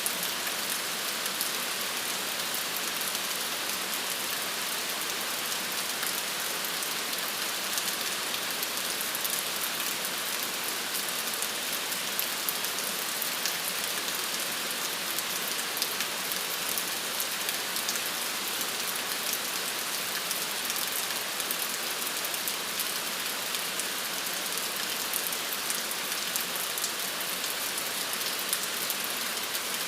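Steady rain falling on a surface: an even hiss of rain with fine pattering drops, unchanging throughout.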